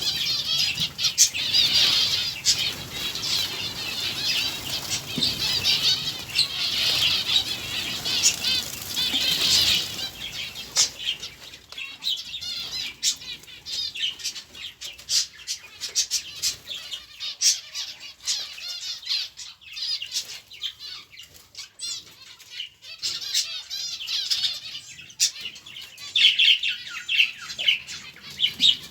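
A flock of small cage birds chattering and chirping together, with wings fluttering. The chirping is dense for the first ten seconds or so, thins out in the middle and swells again near the end.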